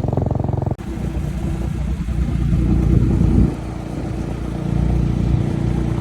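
Motorcycle riding: the engine runs under way beneath heavy low wind rumble on the microphone. The sound changes abruptly at a cut about a second in, then swells, eases about halfway through, and swells again.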